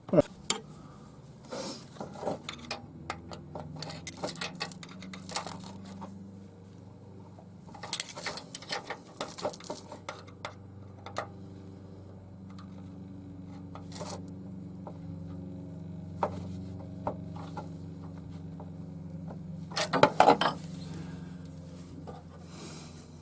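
Metal hand tools clinking and tapping on the valve rocker gear of a VW 1600 CT air-cooled engine as a hydraulic tappet adjuster is turned. A steady low hum sits underneath from about three seconds in.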